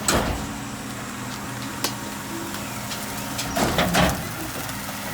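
Mack MRU rear-loader garbage truck's engine running steadily, with a few knocks and a louder clatter about three and a half to four seconds in.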